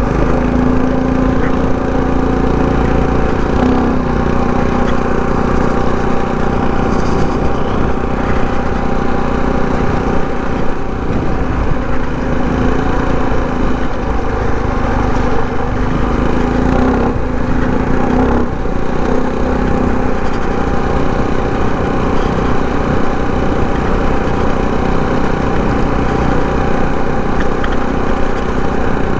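Minibike's Predator 224 single-cylinder four-stroke engine running steadily under way. The throttle is eased off briefly twice, about four seconds in and again about eighteen seconds in.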